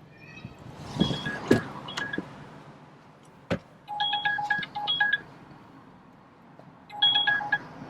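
Short electronic beeps in three quick bursts, with a sharp click between the second and third.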